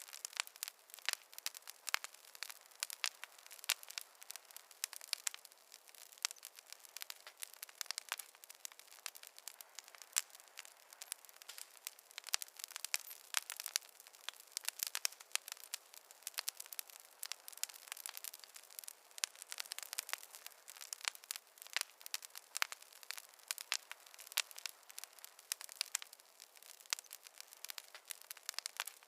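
Wood fire crackling in a fireplace: dense, irregular snaps and pops over a soft hiss, with almost no low rumble.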